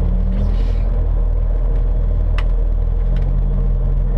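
Rally car engine running steadily at idle, heard as a deep rumble inside the stripped, roll-caged cabin. There is a single sharp click about halfway through.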